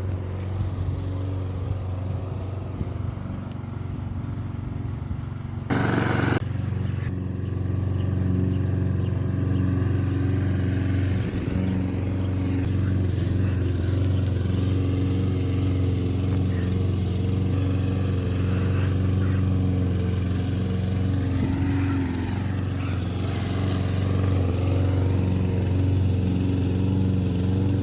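Lawn mower engine running steadily with a low rumble. A short, loud rushing burst comes about six seconds in.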